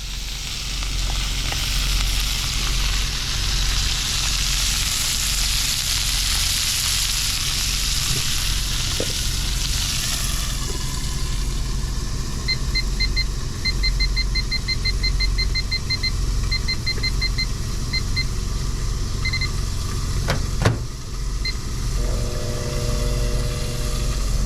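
Steak sizzling in a frying pan on a cook plate, loudest in the first few seconds, over a steady low rumble. In the middle comes a long run of quick electronic beeps, and a sharp knock follows a few seconds before the end.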